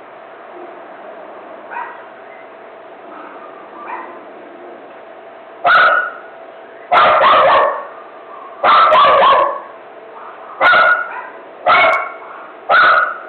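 Dog barking: a couple of faint barks, then from about six seconds in a run of loud barks roughly once a second, some in quick pairs or triples.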